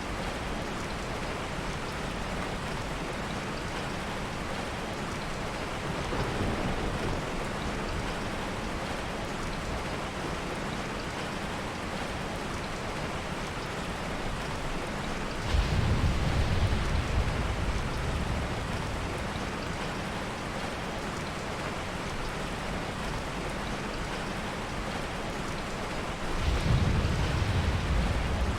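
Steady heavy rain, broken by three low rolls of thunder: a faint one, then two louder ones, the last near the end.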